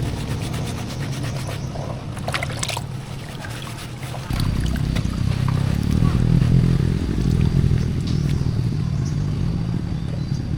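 An engine running steadily. It gets louder and heavier about four seconds in, as if under more throttle or load.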